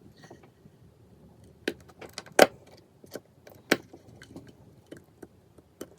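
Small hard clicks and taps of phone parts and small repair tools being handled on a work surface, a handful of sharp ones spread over a few seconds, the loudest about halfway through.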